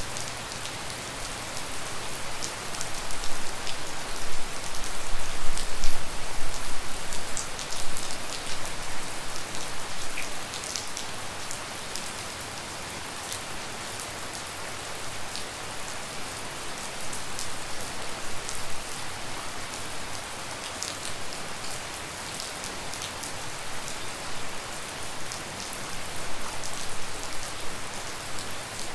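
Steady tropical rain falling, with a dense patter of individual drops striking surfaces close by; the downpour swells a little a few seconds in, then settles.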